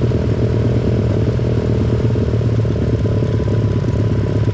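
Pit bike engine running steadily at an even, low speed.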